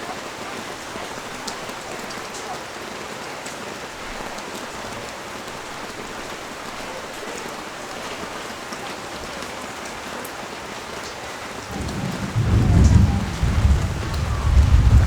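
Steady rain falling on the street, with scattered drop ticks. About twelve seconds in, a low rolling rumble of thunder starts and becomes the loudest sound.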